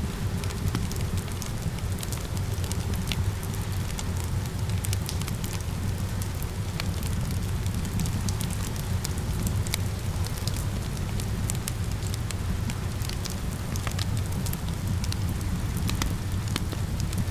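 Wood fire in a fireplace crackling, with irregular sharp pops and snaps over a steady low rush of flames, and rain falling behind it.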